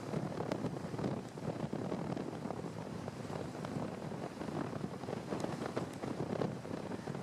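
Wind buffeting the microphone: a steady rushing noise that flutters and crackles irregularly.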